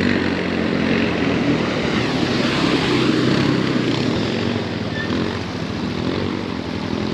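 Quad bike (ATV) engine running, a steady motor drone with a wavering pitch.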